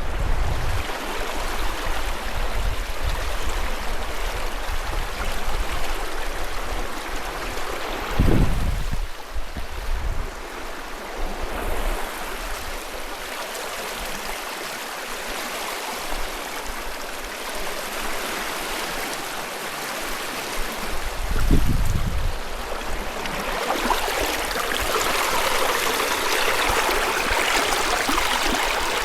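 River water rushing and splashing over rocks, a steady flowing noise that grows louder near the end. Two brief low thumps break in, about a third of the way in and again about three quarters in.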